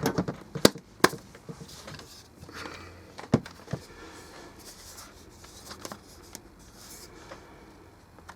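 Sharp clicks and knocks of a hard plastic speaker casing and its parts being handled and worked apart, a few loud ones in the first few seconds, then only faint ticks and handling noise.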